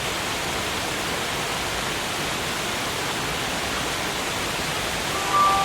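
Steady, even rush of a waterfall. About five seconds in, wind chimes begin ringing over it.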